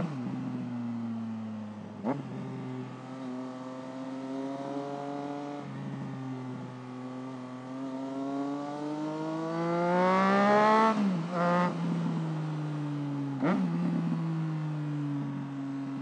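Triumph Trident 660's three-cylinder engine heard while riding: a steady running note, then a long rising rev under acceleration that drops off sharply about eleven seconds in. There are a few short sharp cracks where the note steps down.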